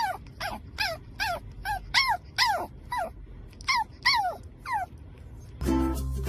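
A dog whining in a quick series of short, high whimpers, each falling in pitch, about a dozen in all. Music comes in near the end.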